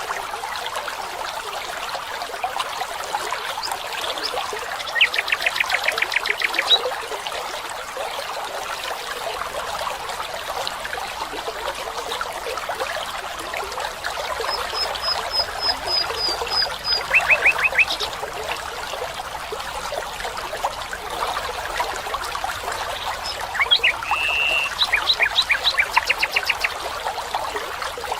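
Water trickling steadily, like a small forest stream, with rapid trilled calls breaking in three times and a short run of high notes in the middle.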